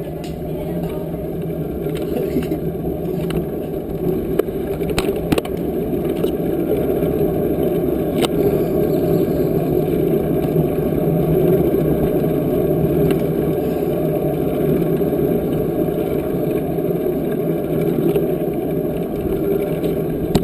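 Steady rolling and rushing noise of a bicycle being ridden, with a few small clicks and rattles.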